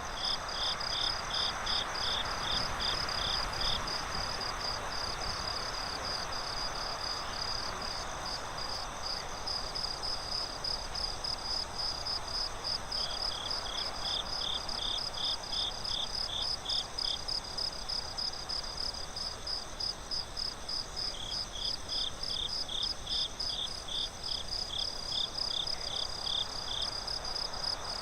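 Night crickets chirping in a steady, fast pulse. A second, slightly lower chirping joins in three bouts of about four seconds each: at the start, about halfway, and near the end. A soft hiss runs underneath.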